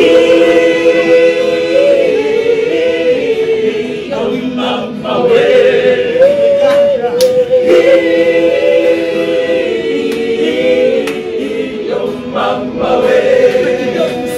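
Gospel vocal group singing a cappella in close harmony, holding long chords that change every second or two.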